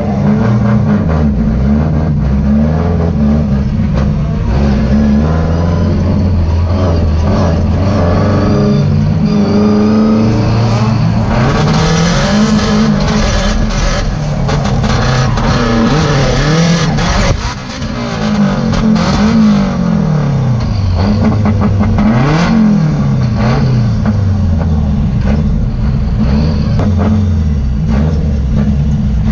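Drift car engine heard from inside the cabin, revving hard with its pitch rising and falling over and over as the car drifts through corners. The note dips briefly about 17 seconds in, then climbs again.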